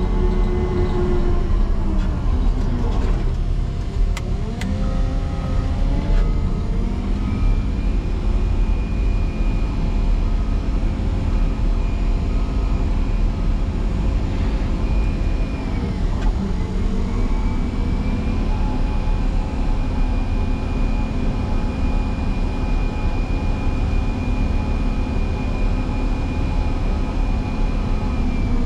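Motor grader's diesel engine working hard while plowing into a deep snow drift. Its pitch sags twice, about three seconds in and again near the middle, then climbs back and holds a steady high run.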